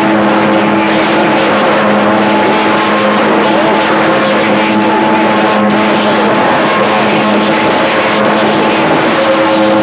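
CB radio receiver hissing with loud band static during skip, with several steady heterodyne whistles from other stations' carriers running through it.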